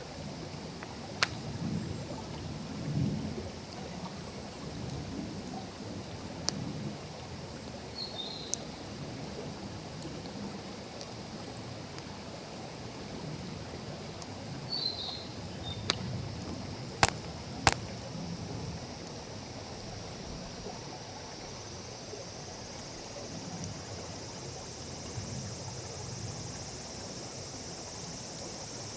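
Wood bonfire burning on the ground, a low crackling rumble broken by a few sharp pops of burning wood, the two loudest close together a little past halfway. Insects chirring come in high and steady over the last part.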